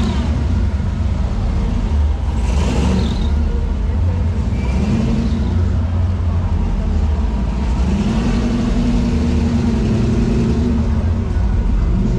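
Car engine running steadily with deep exhaust, revving now and then.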